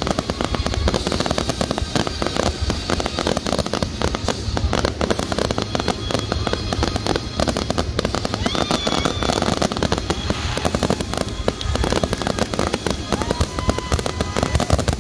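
Fireworks going off in a dense, continuous barrage of bangs and crackles, many reports a second with no pause.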